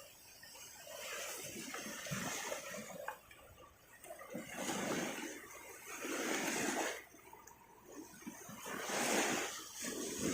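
Small waves breaking and washing up the beach, a rushing sound that swells and fades in repeated surges every couple of seconds.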